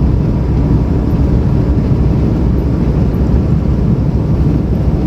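Steady low drone of a semi truck's diesel engine and tyres while cruising on the highway.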